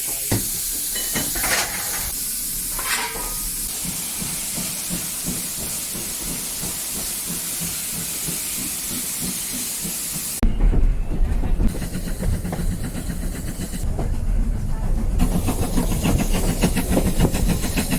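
Steam locomotive venting steam with a steady hiss. About ten seconds in, the sound changes abruptly to a louder low rumble with fast regular beats, the sound of a train under way.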